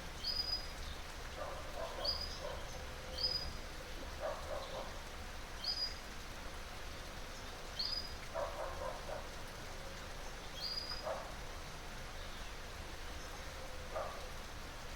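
Water flowing steadily, with a bird repeating a short, high, slightly falling chirp every second or two. A few lower, ragged calls from another animal come at intervals.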